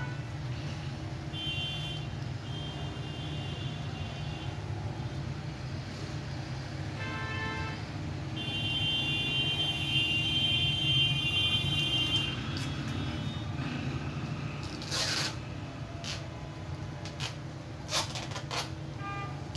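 Steady low rumble of background traffic with several horn-like tones sounding in spells, then a few short sharp rasps near the end.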